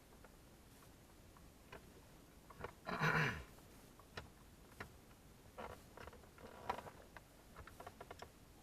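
Scattered small clicks and taps of a screwdriver and screws being worked out of plastic dash trim panels, with one louder scraping rustle about three seconds in.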